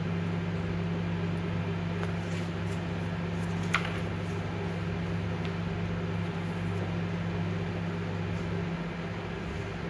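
Microwave oven running, a steady electrical hum with the turntable turning; one brief click about four seconds in.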